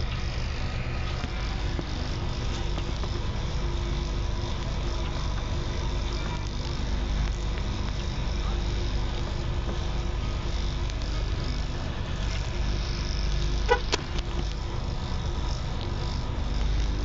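Steady low rumble of a vehicle on the move, with one sharp click about 14 seconds in.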